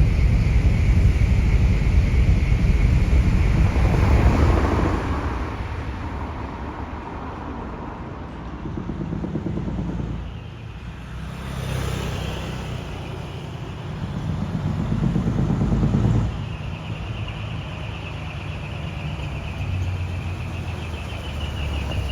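Isuzu Forward truck's diesel engine with a split exhaust manifold and single muffler, running raw and revving. It is loudest over the first few seconds, eases, swells again and then drops off suddenly about sixteen seconds in.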